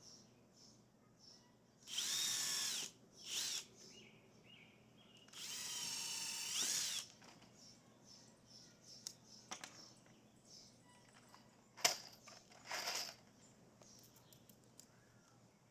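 Cordless power drill running in short bursts, its motor whine bending in pitch as it drives fasteners. The longest run lasts about a second and a half, in the middle. There is a sharp knock shortly before the last short burst.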